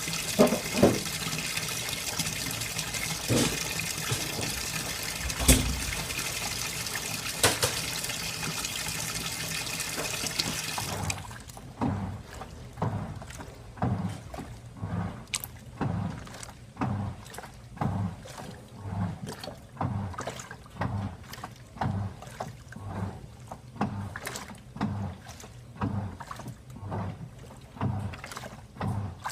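SANYO ASW-40C1 coin-operated 4 kg washing machine filling with water, a steady hiss with a few knocks. About 11 seconds in the water cuts off and the plastic tub starts agitating at low water level, sloshing rhythmically about every 0.7 seconds. This machine agitates at low water to gauge how much water the load needs.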